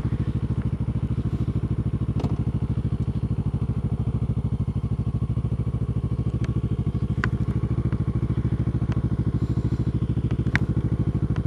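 Motorcycle engine running at low, steady revs with an even pulsing beat, and a few light sharp clicks over it.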